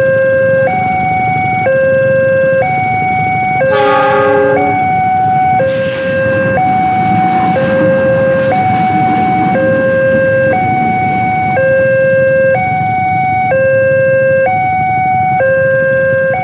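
Two-tone electronic warning alarm of a railway level crossing, alternating steadily between a lower and a higher tone about once a second, over a low rumble and rain noise. A short horn blast cuts in about four seconds in.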